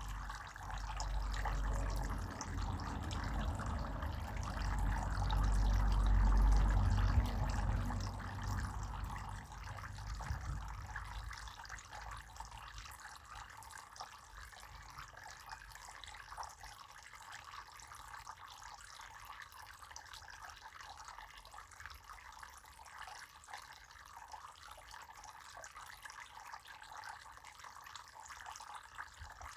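Water running freely in a steady flow. A low rumble is loudest over the first ten seconds or so and then dies away, leaving the even rush of water.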